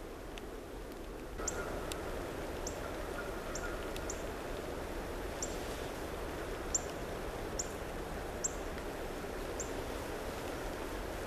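A small bird giving repeated sharp, high chip notes, roughly one a second, over a steady outdoor rushing noise that grows louder about a second and a half in.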